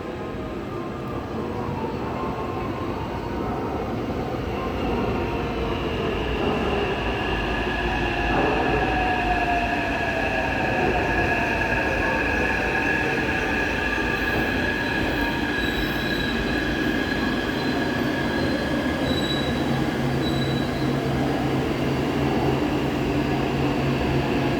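Taipei Metro C381 metro train pulling away and gathering speed, its traction motors whining with steady high tones over a growing rumble of wheels on rail. A rising whine comes in about eight seconds in, and the sound gets louder as the train speeds up.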